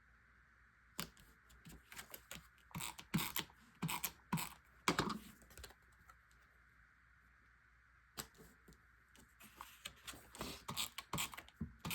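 Paper scrapbook pieces being handled and stuck down with adhesive: irregular clicks and taps in two bursts, with a pause between them.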